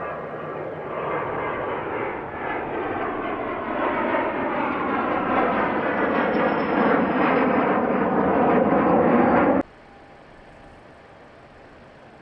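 Fixed-wing aircraft engine growing steadily louder as a plane passes close, with a thin high whine that drops slightly in pitch. It cuts off abruptly near the end, leaving only a quiet steady background.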